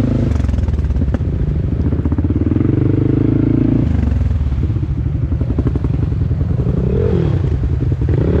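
Four-wheeler (ATV) engine running while being ridden, its note shifting up and down as the throttle changes, with some clattering.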